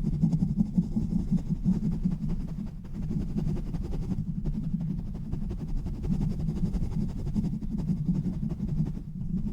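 Fast, rough rubbing and scratching directly on a bare microphone with no foam cover or filter: a dense, low rumbling rustle that surges and eases without a break.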